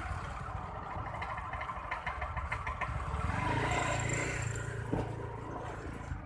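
Steady rain noise with a motor vehicle engine passing close by, loudest around the middle. A quick run of light clicks comes about two seconds in.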